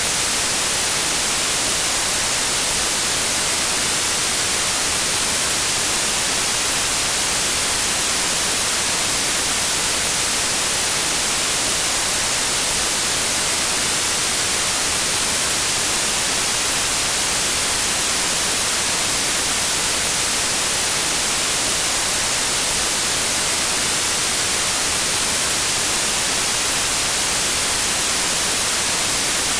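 Steady white noise: an even hiss with no change in level, brightest in the treble.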